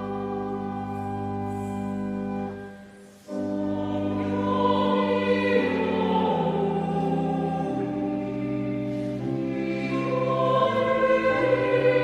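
Church choir singing a hymn in held chords with pipe organ accompaniment. A phrase ends and fades out about two and a half seconds in, and after a short breath the next phrase begins.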